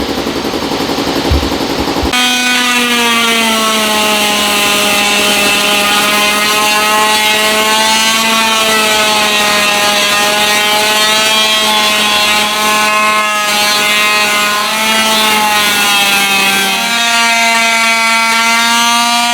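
Air-powered hand tool, such as a die grinder or chamfer tool, running with a steady high whine. The pitch sags a little in the middle and steps up near the end. A short rattly run comes before it starts.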